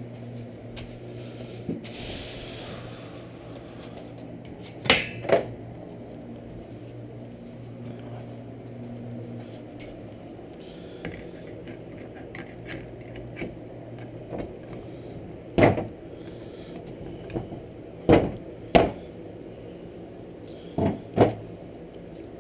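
Tools and metal parts handled on a workbench: a handful of sharp clacks, several in close pairs, as pliers and parts are picked up and set down, over a steady low hum.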